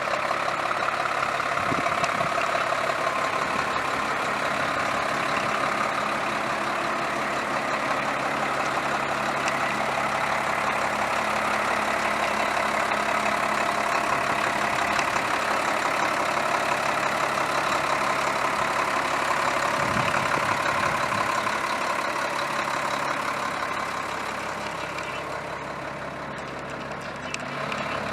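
Nissan UD 2000 ramp truck's diesel engine idling steadily, growing a little quieter for a few seconds near the end.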